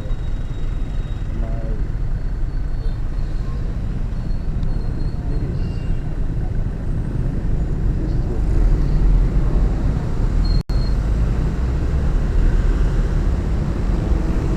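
Wind and road noise on a motorbike rider's action-camera microphone while riding in traffic: a steady, loud low rumble. The sound cuts out for an instant about ten seconds in.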